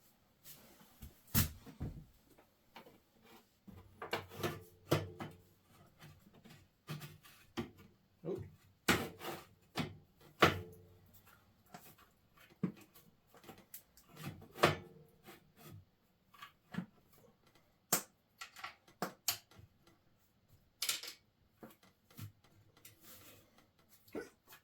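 Irregular clinks and knocks of hand tools and metal motorcycle parts as an exhaust silencer is fitted to its expansion chamber and the mount bolt is put back in. The knocks come in scattered clusters, the loudest about halfway through.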